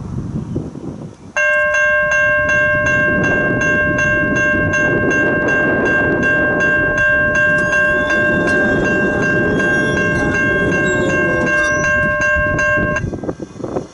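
A freight locomotive's air horn sounds in one long, steady blast. It starts suddenly about a second and a half in and cuts off near the end, over the low rumble of the train. A quick, regular high ticking, about three a second, runs along with the horn.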